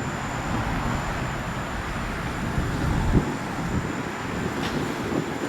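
Steady traffic and road noise with low wind rumble on the microphone, even throughout with no distinct events.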